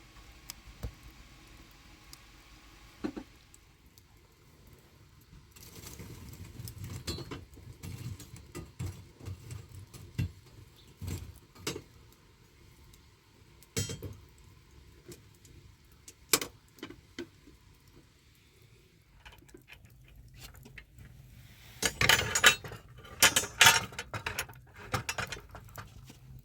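Close-up handling of objects: scattered clicks and knocks with some rustling, then a quick run of louder clinks and rattles near the end.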